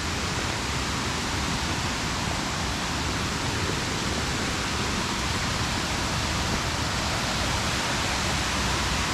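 Waterfall: water pouring over the falls in a steady, unbroken rush.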